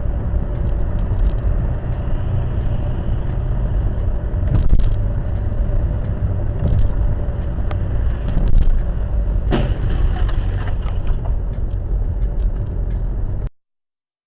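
Steady low road and engine rumble of a car driving, with a few faint clicks and a short sharper sound about nine and a half seconds in. It cuts off suddenly near the end.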